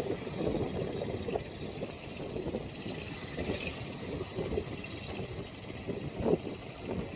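An engine running unevenly, with a few louder peaks, over a faint steady hiss.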